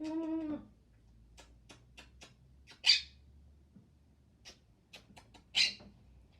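Pet parrot calling and hissing while it spars playfully: a short pitched call at the start, then scattered sharp clicks and two short hissing bursts.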